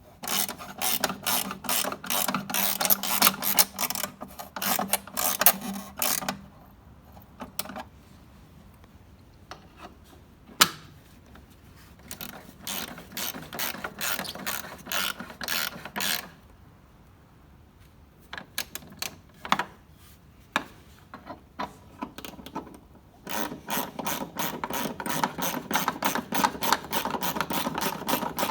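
Hand ratchet clicking rapidly as bolts are driven in while the covers are refitted. There are three spells of fast clicking with pauses between them, and a single sharp knock in the first pause.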